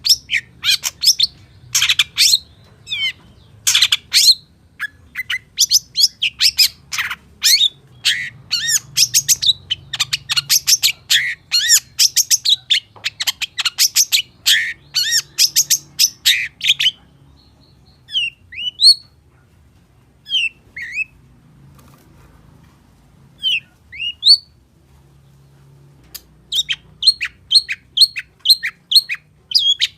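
Long-tailed shrike (cendet) singing a rapid, varied song of high chirps and trills, packed with mimicked calls of other birds. About halfway through it drops to a few scattered sweeping calls, then resumes with fast repeated chirps near the end.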